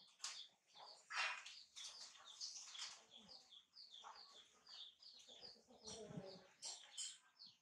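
Birds chirping faintly: a long run of short, high, falling chirps, about three a second, with a few soft knocks mixed in.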